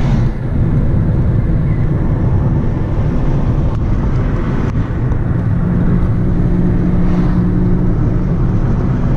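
Car engine and tyre noise heard from inside the cabin while driving, a steady low rumble; a steady engine hum stands out more clearly about halfway through.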